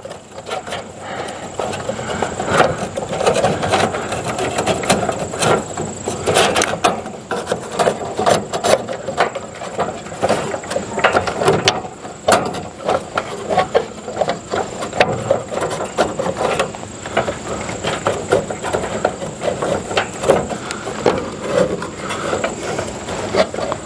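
Irregular clicks, scrapes and knocks of a replacement RV furnace blower wheel being worked and pushed onto the blower motor shaft in its housing.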